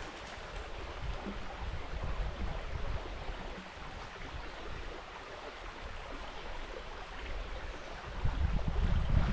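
River water running steadily, with wind buffeting the microphone in low gusts that grow louder near the end.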